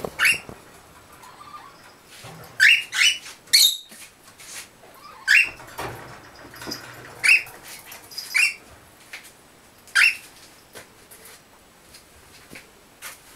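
Pet gray parrots giving short, shrill calls, about ten in all: three in quick succession about three seconds in, then single calls every second or two.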